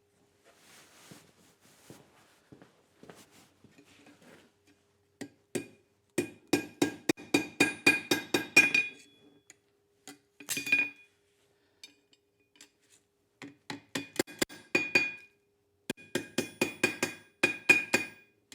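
Hammer blows on steel at an anvil, in quick runs of about four strikes a second, each one ringing with a bright metallic tone. Faint scraping and light taps come first, and the hammering starts about six seconds in.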